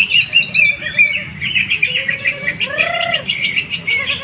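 Several cucak hijau (green leafbirds) singing at once, a dense, continuous chatter of rapid chirps and trills, with one lower, arching call about three seconds in.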